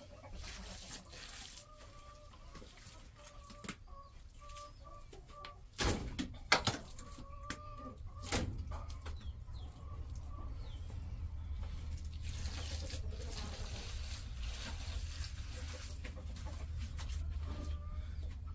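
Short repeated bird calls, like clucking, over the first half, with a few sharp knocks about six and eight seconds in, then a steady rushing noise through the second half.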